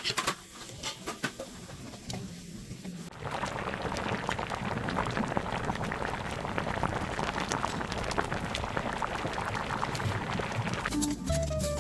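Food cooking in a pot of hot liquid: a dense, fine crackle of bubbling that starts about three seconds in and runs on evenly.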